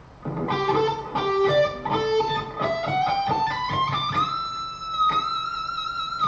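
Electric guitar playing a fast scale run that climbs up the neck on the B and high E strings, ending about four seconds in on a high note held as a long bend at the 22nd fret of the high E string, pushed up a whole step.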